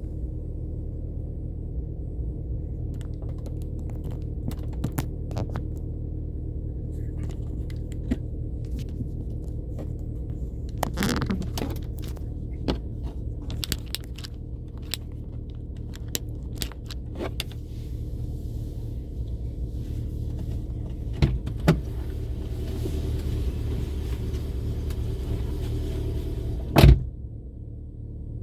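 Car driving on city streets: a steady, low engine and road rumble with scattered clicks and rattles, and one sharp knock near the end.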